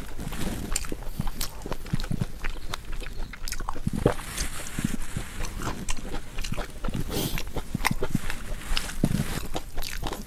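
Close-miked chewing and mouth sounds of a person eating, with irregular smacks and clicks.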